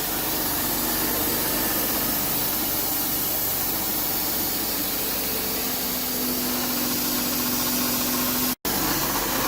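Wood-Mizer LT40 band sawmill running, a steady, even machine noise with a steady hum joining in about two-thirds of the way through; the sound drops out for an instant near the end.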